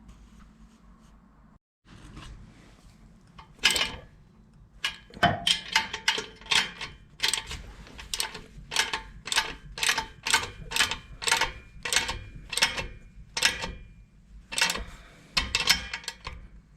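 Ratchet wrench worked in quick back-and-forth strokes, about three sharp ratcheting bursts a second with a few short pauses, as when running a bolt or nut on or off.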